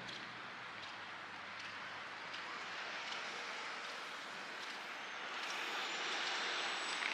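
City street ambience: a steady hiss of traffic or wash, a little louder in the second half, with a faint high whistle rising slowly near the end.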